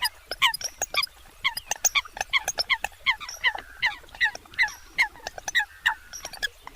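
Eurasian coots calling: a rapid, overlapping run of short, sharp notes, several a second, each dropping in pitch.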